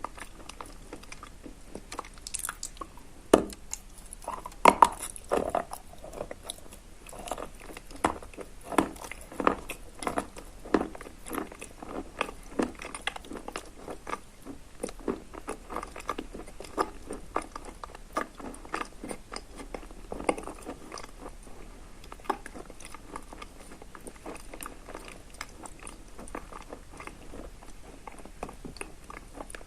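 Close-up chewing of soaked chalk mixed with dry chalk crumbs, a wet crunching. A few loud bites come about three to five seconds in, then steady chewing crunches, a little more than one a second, grow softer toward the end.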